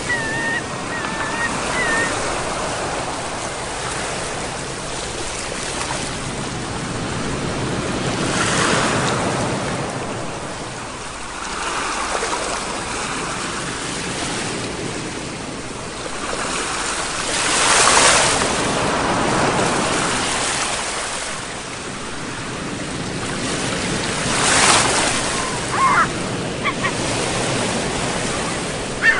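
Ocean surf washing continuously onto a shore, with larger waves swelling and breaking three times, the loudest just over halfway through.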